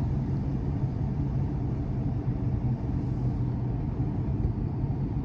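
Steady engine and road noise heard from inside a moving vehicle: an even low hum with no change.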